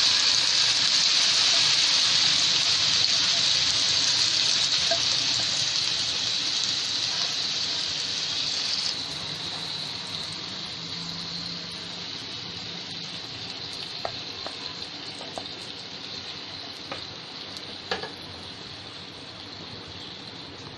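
Marinated paneer cubes in curd-and-spice batter sizzling in hot oil on a nonstick tawa, loudest at first and dying down gradually. A few light knocks of a spatula stirring the pieces come in the second half.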